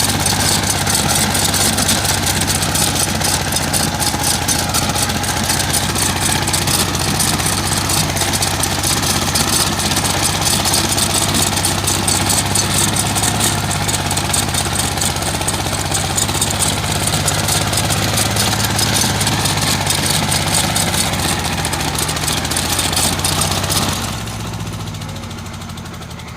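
D.K. Champion mini tractor's engine running steadily with a dense mechanical clatter. Near the end it drops quieter and duller.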